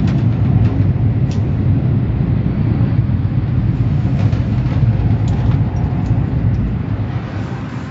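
A loud, steady low rumble with a few faint clicks over it.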